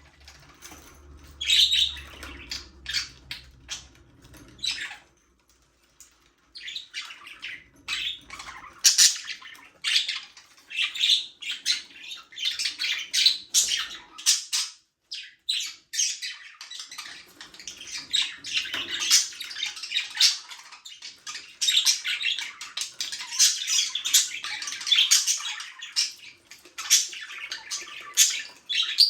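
A flock of budgies (budgerigars) chattering and chirping together, with rapid overlapping warbles and squawks. There is a brief lull about six seconds in, after which the chatter becomes denser and steadier.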